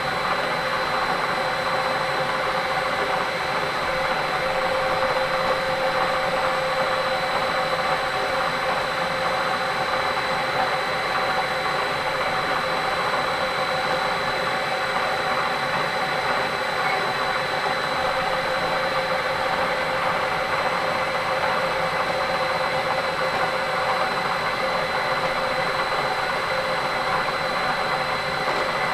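Milling machine running steadily: an even motor hum with a constant high whine, no starts, stops or changes.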